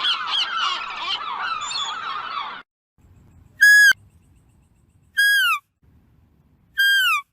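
Animal calls. First comes a busy chorus of many overlapping squeaky, chattering calls that cuts off about two and a half seconds in. Then come three separate clear whistled calls about a second and a half apart, each held briefly and then dropping in pitch.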